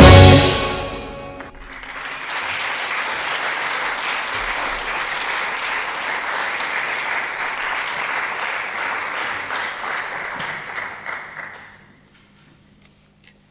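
A tango quartet of guitar, bandoneón, double bass and drums strikes its final chord, which rings out and fades over a second or so. An audience then applauds steadily for about ten seconds and dies away near the end.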